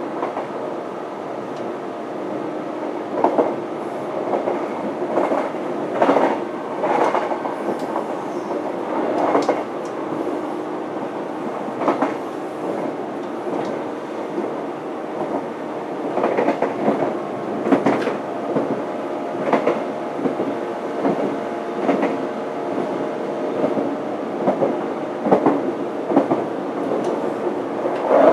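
Running sound of a JNR 583 series sleeper EMU motor car (MoHaNe 583) as heard from its vestibule: a steady rumble with a faint hum, and irregular clickety-clack of the wheels over rail joints, often in pairs, every second or few.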